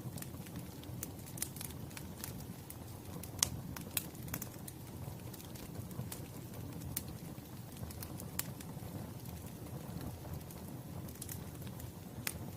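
Wood fire crackling: irregular sharp pops and snaps over a steady low rumble of the burning, with the loudest pop about three and a half seconds in.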